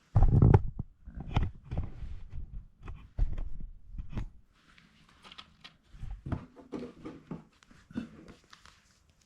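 Plastic Lego model being handled and worked, with irregular clicks, knocks and rubbing; the loudest thump comes just after the start.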